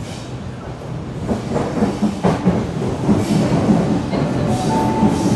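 Electric passenger train rumbling and clattering on the track, getting louder from about a second in. A brief high tone sounds near the end.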